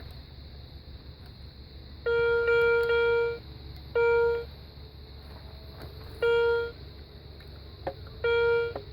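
Garrett Ace 150 metal detector giving its signal tone as the coil sweeps over a coin buried about 9 inches deep: a steady beep of one pitch, a long one about two seconds in, then shorter beeps every two seconds or so.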